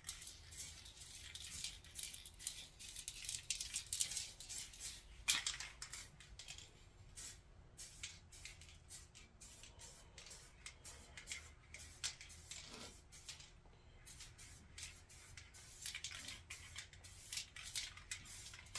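Aerosol can of black spray paint hissing in many short bursts and a few longer sprays, with gaps between them; a sharp click sounds about five seconds in.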